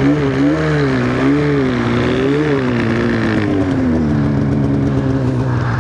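Snowmobile engine running under changing throttle. Its pitch wavers up and down several times, then eases lower through the second half.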